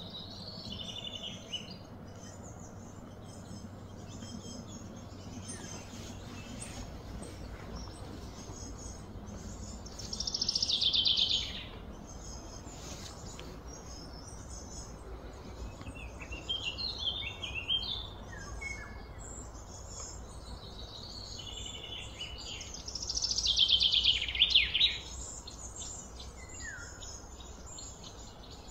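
Birds chirping and calling over a steady low background hum, with two louder, rapidly pulsed calls that drop slightly in pitch, each lasting one to two seconds, about ten and twenty-three seconds in.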